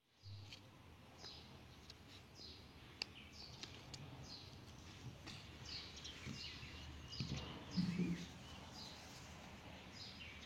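Small bird chirping: short, high, falling chirps repeated every half second or so over a low steady background rumble, with one louder, lower call a little before the 8-second mark.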